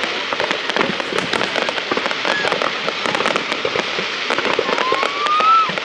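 Fireworks display: a dense, continuous crackle of many small bursts, with a short rising whistle about two seconds in and a longer rising whistle near the end.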